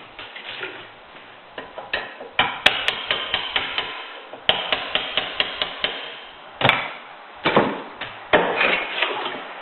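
Hammer tapping a punch against a metal fitting on a switch box: quick runs of light strikes, then a few harder single blows near the end.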